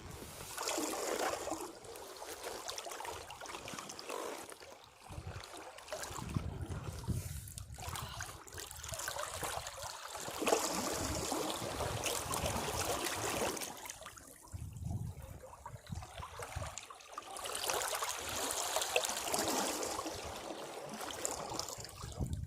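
Caribbean sea waves washing against rocks, the water surging in and draining off in trickles. The wash swells and ebbs in several surges a few seconds apart.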